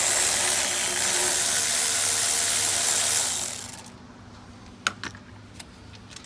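Power tool motor running steadily and loudly, spinning out a bolt, then stopping about three and a half seconds in, followed by a few light clicks.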